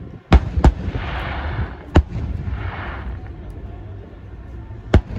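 Aerial fireworks bursting: four sharp bangs, two in quick succession just after the start, one about two seconds in and one near the end, with a crackling hiss between the first bursts.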